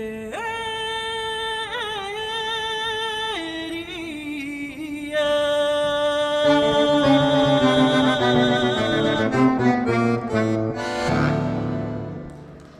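Accordion playing the closing passage of a folk song: first a single held melody line with small ornaments, then full chords with low bass notes joining about six seconds in. A final chord fades out near the end.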